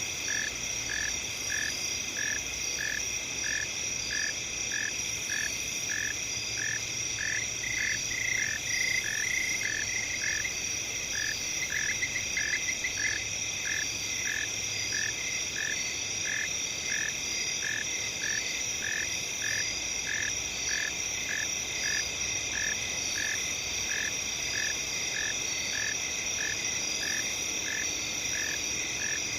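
Night chorus of crickets: a steady high shrill, with a short chirp repeating evenly about one and a half times a second and a brief extra trill about ten seconds in.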